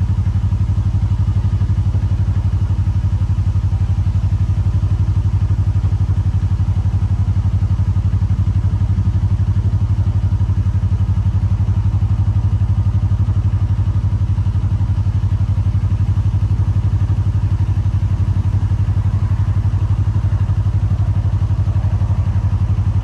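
Narrowboat's diesel engine running steadily at low speed, a deep, even, fast throb.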